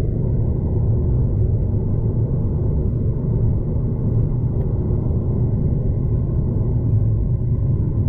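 V/Line passenger train running at speed, heard from inside the carriage as a steady low rumble of wheels on track with no breaks or changes.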